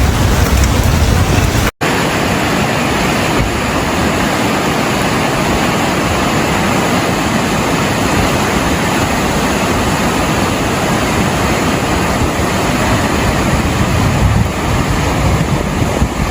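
Rushing floodwater: a steady, loud rushing noise with no break, except a brief dropout about two seconds in.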